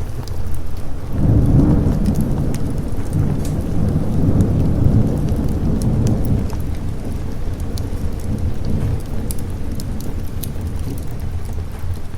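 A roll of thunder over steady rain: the deep rumble swells about a second in and slowly dies away, with sharp ticks scattered through the rain.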